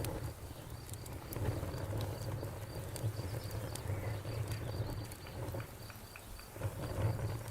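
Wood campfire crackling, with scattered sharp pops and snaps over a low, steady rumble of the flames. A high, evenly repeating chirp, like a cricket's, runs behind it.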